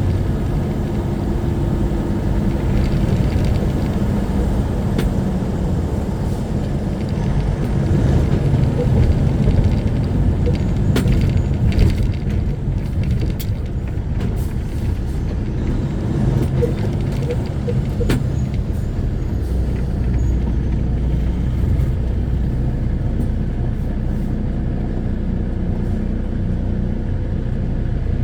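Semi truck's diesel engine running with road noise, heard from inside the cab while driving, steady and low-pitched with a few light clicks. About two-thirds of the way through, a deeper steady hum joins in.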